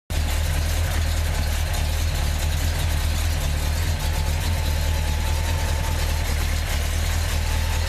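1963 Mercury Marauder's Ford FE V8 idling steadily and quietly, its header cutouts capped so the exhaust runs through the mufflers.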